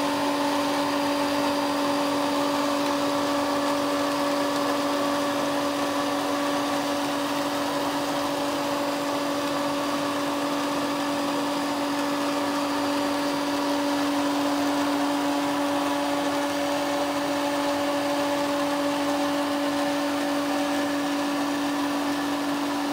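Crompton domestic electric water pump motor running steadily: a constant hum built on one strong low tone, with no change in speed or level.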